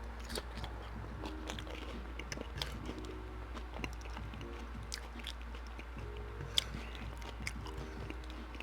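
Close-miked chewing of a person eating, with irregular small mouth clicks and crunches, over a low steady hum.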